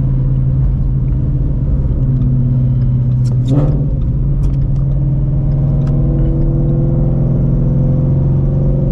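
2016 Shelby GT350's 5.2-litre Voodoo flat-plane-crank V8, fitted with long-tube headers, an X-pipe and a Borla cat-back exhaust, running steadily under light throttle while driving. The note shifts briefly about three and a half seconds in, then the revs slowly climb toward the end.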